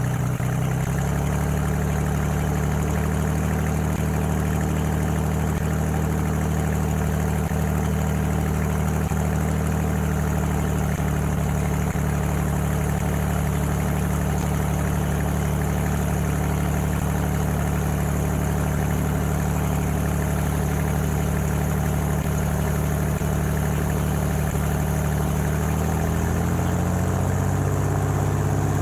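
Cessna 205's six-cylinder piston engine and propeller running steadily, its pitch rising slightly near the end.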